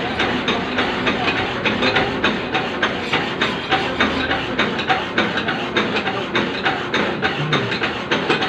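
Machine tool cutting a keyway in metal, making a steady, rhythmic clatter of about four knocks a second.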